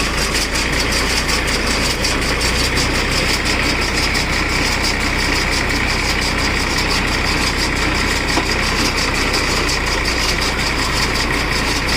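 New Holland 3230 NX tractor's diesel engine running steadily.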